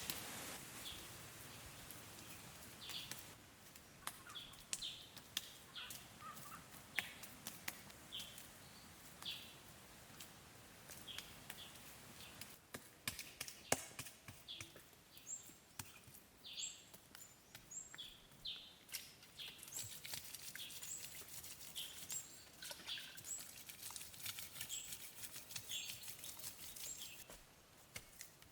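Birds chirping in short, repeated high notes, with a few sharp knocks or taps now and then.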